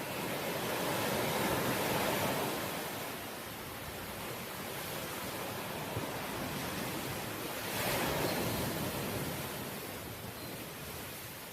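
Ocean waves breaking on the shore: a steady rush of surf that swells twice, once in the first few seconds and again about eight seconds in.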